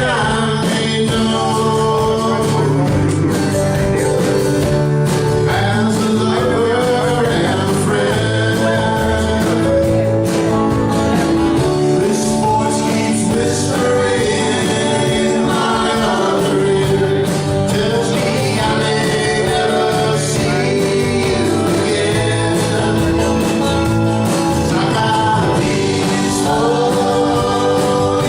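Live band playing a song with a lead vocal over it; steady full-band music with a regular drum beat.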